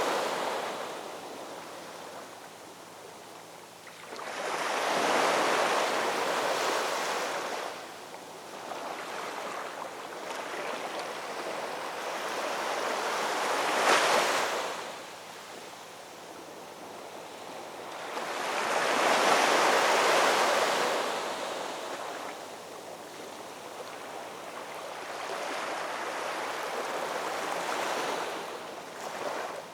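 Ocean waves breaking on a shoreline, the surf swelling and washing back in slow surges: three larger waves crash a few seconds apart, the middle one with a sharper break.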